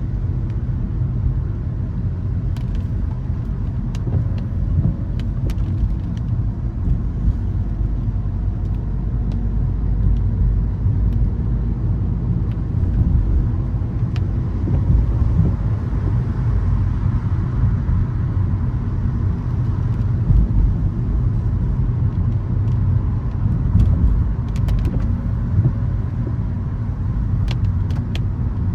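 Car driving on rain-wet city streets: a steady low rumble of engine and road with tyre hiss, a sound that swells for a few seconds midway, and scattered light ticks.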